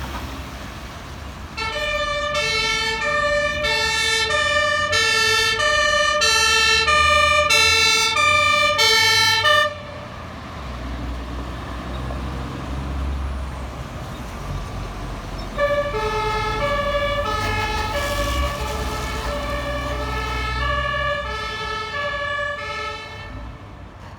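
German two-tone fire brigade siren (Martinshorn) alternating between a high and a low note on heavy fire service trucks on an emergency run, over the low rumble of their diesel engines. The first siren is loud and cuts off suddenly near the middle; after a gap of a few seconds a second, somewhat fainter siren starts and runs until shortly before the end.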